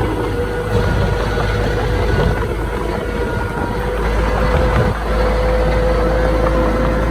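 Diesel engine of heavy earthmoving machinery (bulldozer or dump truck) running steadily, with a thin steady whine through it that grows steadier about five seconds in.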